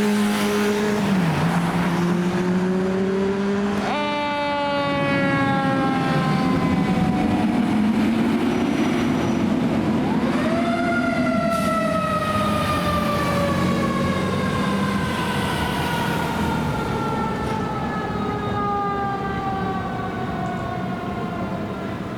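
Fire engine siren on a responding engine. It winds up sharply twice, about four seconds in and again near eleven seconds, and each time slowly falls in pitch, over the engine's steady drone.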